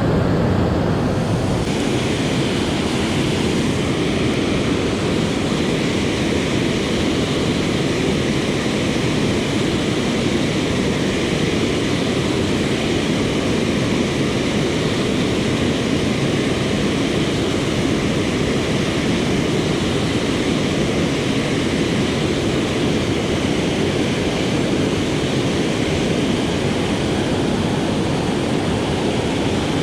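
Steady rush of flowing river water, an even roar that does not change throughout.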